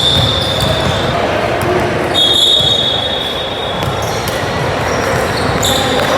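Basketball game in a gym: a steady din of crowd and court noise with a ball bouncing on the floor. Two long, high, steady whistle blasts sound over it, one at the start and a longer one about two seconds in.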